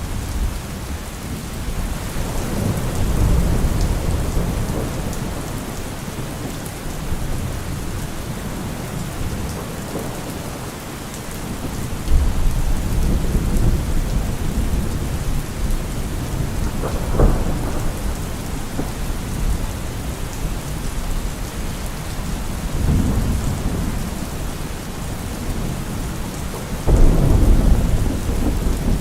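Heavy rain falling steadily on a car roof, with several rolls of low thunder; the loudest thunder comes suddenly near the end.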